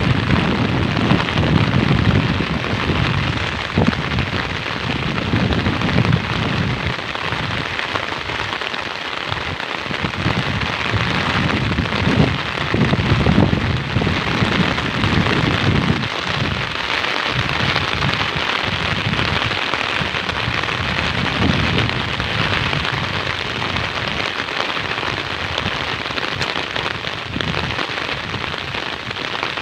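Heavy rain falling steadily, a dense even hiss, with uneven low rumbling that comes and goes through the first half and fades later on.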